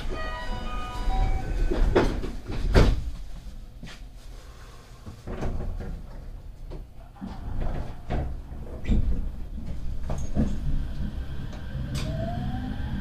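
The doors of a JR West 225-100 series electric train close with a couple of heavy clunks, followed by several lighter knocks. Near the end a rising motor whine starts as the train begins to pull away.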